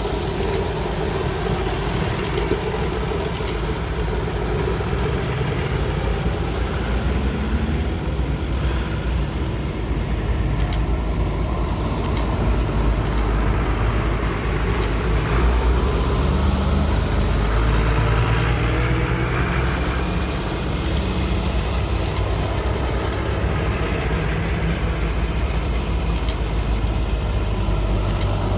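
Tractor engines running with a continuous low rumble, slightly louder in the middle, as tractors move along on a road run.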